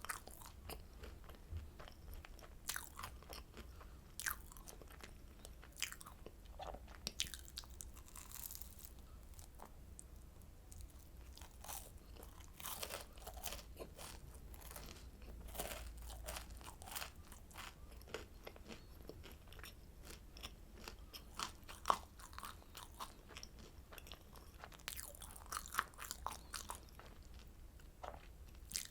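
Close-miked eating of oranda, a Korean candy of puffed grains bound with syrup: irregular crisp crunches of biting and chewing, a few louder snaps among them, such as one about 22 seconds in.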